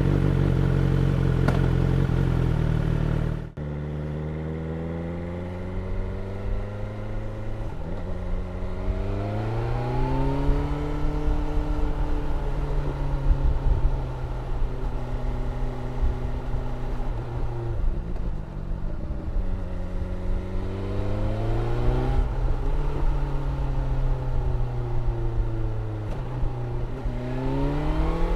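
BMW S1000R's inline-four engine at a fast idle that drops suddenly about three and a half seconds in, then running at low revs as the bike moves off, the revs rising and falling back several times.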